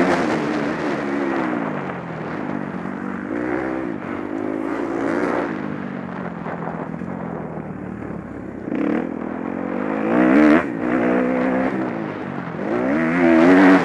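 Motocross bike engines revving hard, their pitch repeatedly climbing and dropping with throttle and gear changes. The engine sound swells as bikes come close, about ten seconds in and again near the end, and eases off in between.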